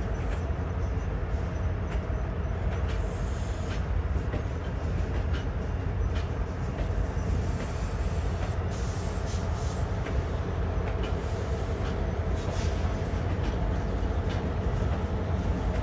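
Metro-North M8 electric multiple-unit train passing at steady speed: a continuous low rumble of wheels on rail with a faint steady motor hum and occasional light clicks.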